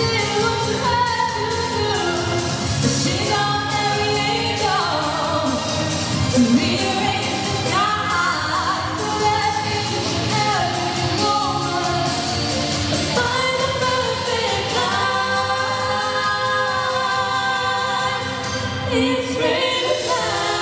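Two female singers performing a pop song as a duet over a full pop accompaniment with a steady beat.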